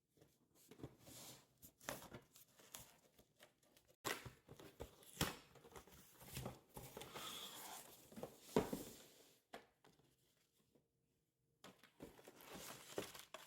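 Faint rustling and crinkling of packaging being handled and opened, with scattered sharp clicks and knocks and a brief pause about two-thirds of the way through.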